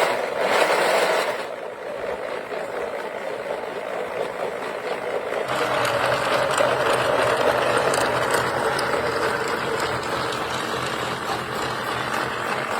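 A wooden model engine running, its moving parts making a steady mechanical rattle that grows fuller about five and a half seconds in.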